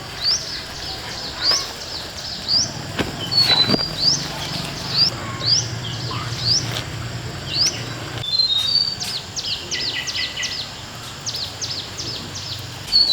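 Birdsong: one bird repeats a short rising chirp about once a second, with another bird's brief high notes and a run of quick falling chirps about two-thirds of the way through. A few sharp clicks and a steady low hum sit underneath.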